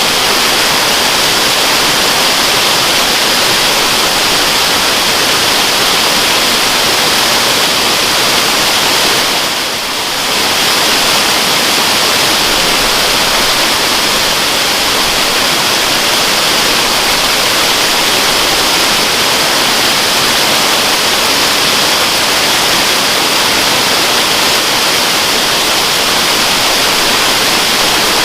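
A waterfall's steady, loud rushing of falling water. It dips briefly in level about ten seconds in.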